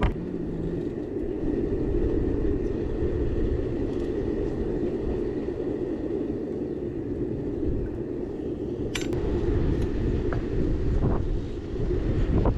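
Steady roaring noise with wind buffeting the microphone, and a sharp metallic clink about nine seconds in.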